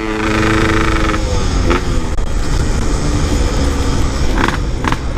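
Motorcycle engine running under way as it is ridden, holding a steady note for about the first second, then a rougher rumble. The engine has just had a new oversize piston fitted and its carburettor is still set very rich.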